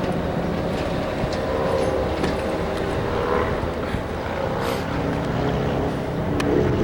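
Train locomotive running with a steady low rumble, with scattered metallic clicks and clanks over it.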